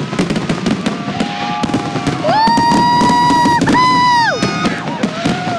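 Consumer fireworks going off in a rapid-fire barrage, a fast run of bangs and crackles, with a loud steady high whistle lasting about two seconds in the middle, briefly broken partway through.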